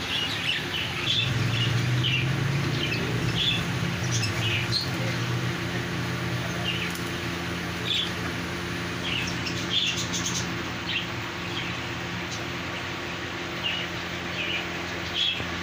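Caged birds chirping, with short, high chirps scattered irregularly throughout, over a steady low hum.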